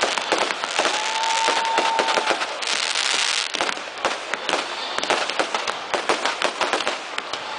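Firecrackers and fireworks going off in a rapid, irregular run of sharp cracks and pops, with a hissing spell in the middle. A steady whistle sounds for about a second, starting about a second in.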